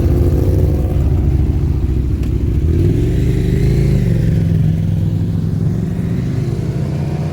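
Motorcycle engines running with a low, steady note and slight rises and falls in pitch.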